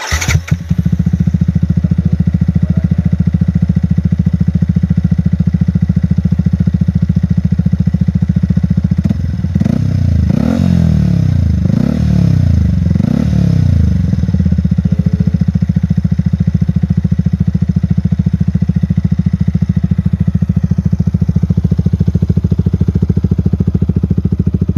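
Yamaha XSR155 single-cylinder engine breathing through an aftermarket Sniper exhaust, starting up and idling steadily, blipped three times about ten seconds in, then idling again.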